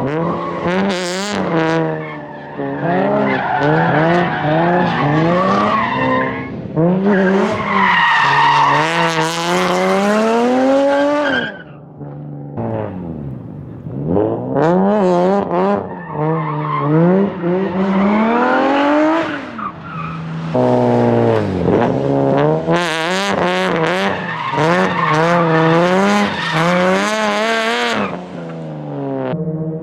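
Nissan VQ V6 drift car engine revving hard, its pitch climbing and falling over and over as the car slides through linked corners, with tyre squeal and skidding noise over it. About twelve seconds in the revs fall right away before building again.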